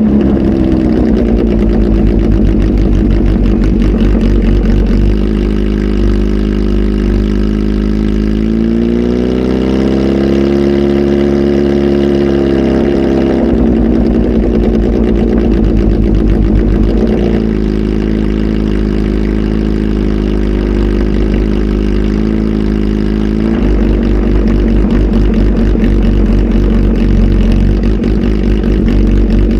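Kawasaki Z H2 SE's supercharged inline-four, fitted with a full exhaust system and a flash tune, running loud. The pitch falls at first, climbs slowly and drops again about halfway through, then rises once more near the end.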